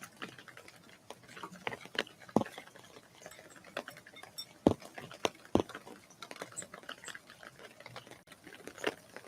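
Irregular sharp taps and knocks, one every second or so, over a faint steady rain hiss at a bird feeder.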